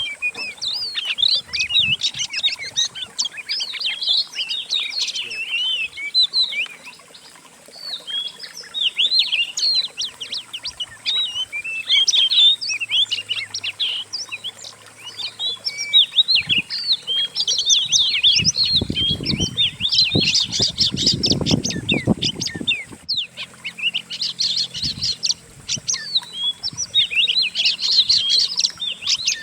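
Several songbirds singing together in a dense, continuous mix of fast chirps, trills and whistled glides. It is a composite masteran recording of several species' songs, used to train kacer (oriental magpie-robins). A low rumble sits under the song for a few seconds past the middle.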